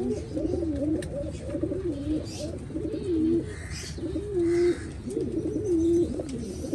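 Several pigeons cooing, overlapping wavering coos repeated about once a second, with a few faint chirps from smaller birds.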